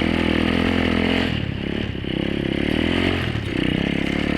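Apollo 125cc dirt bike's single-cylinder four-stroke engine running under throttle; its note dips and climbs back again about a second and a half in and again around three seconds in.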